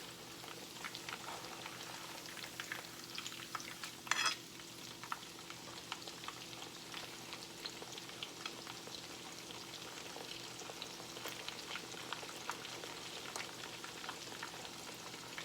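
Breaded chicken breast frying in hot oil in a pan: a soft, continuous sizzle with fine crackling over a faint steady hum, and one brief louder noise about four seconds in.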